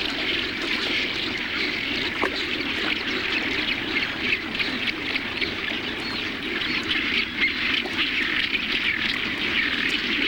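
Breeding colony of black-browed albatrosses: many birds calling at once in a continuous clamour with no pauses.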